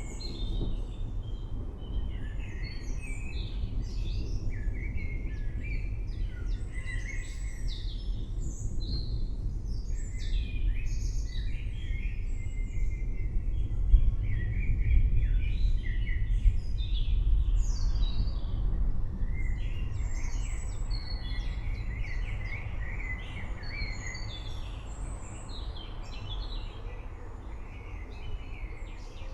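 Many birds chirping and singing at once in a forest, short overlapping calls and trills throughout, over a steady low rumble.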